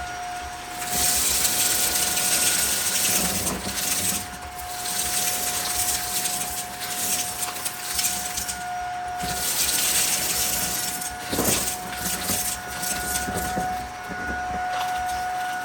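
Vacuum cleaner running with a steady motor whine and a rush of air that swells and fades as the floor head is pushed back and forth. Crackling clicks come from crunchy debris being sucked up, with a sharp cluster about eleven seconds in.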